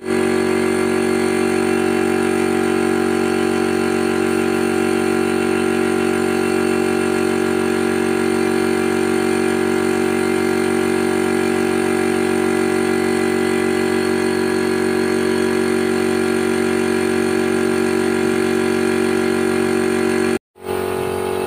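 A motor running steadily at an unchanging speed, a constant machine drone with no rise or fall in pitch.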